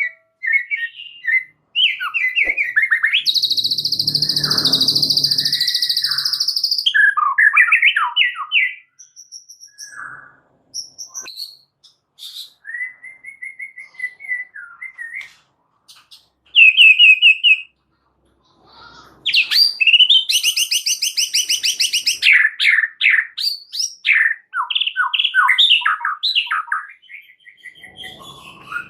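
White-rumped shama (murai batu) singing a loud, varied song: clear whistled phrases and fast trills broken by two long harsh, buzzing chatters and short pauses.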